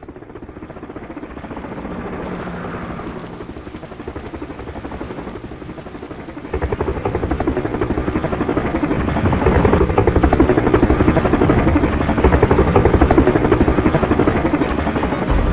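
Offshore helicopter's rotor and engines running with a rapid pulsing beat, growing clearly louder about six seconds in.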